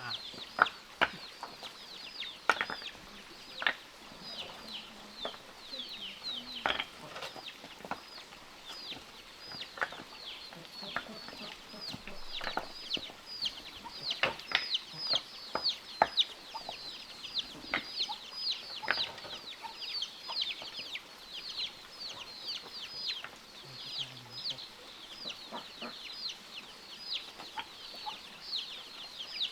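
Chickens calling: a constant stream of short, high, falling cheeps, with scattered sharp knocks and clicks among them.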